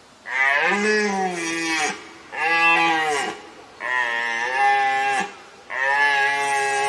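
Red deer stag roaring: four long, bellowing calls in close succession, each lasting a second or more and bending in pitch.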